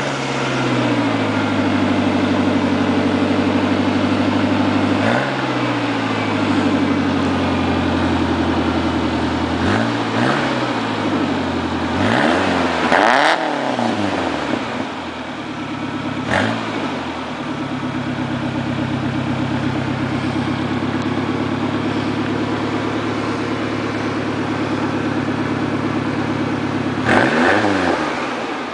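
Ford Ranger 2.3-litre four-cylinder engine idling through its exhaust just after starting, blipped up and back down about five times: once about five seconds in, a cluster of revs around ten to fourteen seconds, once more at about sixteen seconds, and again near the end.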